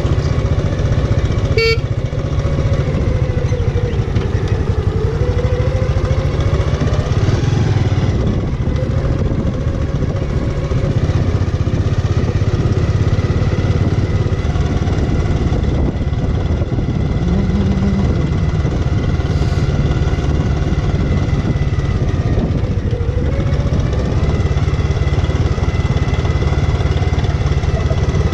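Bajaj Avenger's single-cylinder engine running under way, its pitch rising and falling as the speed changes. A short horn toot sounds about two seconds in.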